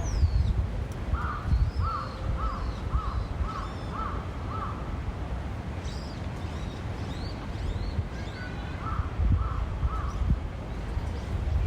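A crow cawing: a run of about seven quick caws, about two a second, then three more later on. Small birds chirp thinly and high in the background over a steady low rumble.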